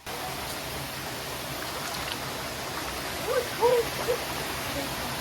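Steady rush of water from a creek waterfall, with a few short, faint voice-like calls about three and a half seconds in.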